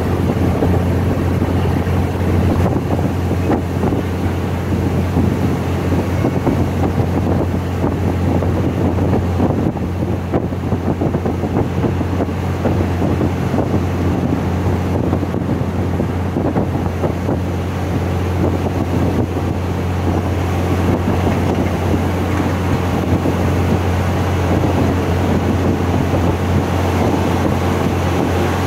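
Steady running noise from inside a moving train: a constant low engine drone with wind rushing at the open window.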